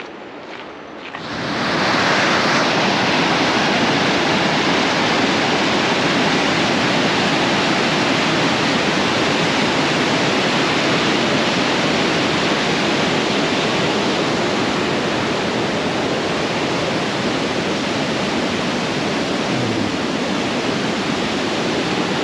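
Waterfall rushing: a loud, steady wash of falling water that swells in about a second and a half in and holds without a break. A few footsteps are heard just before it.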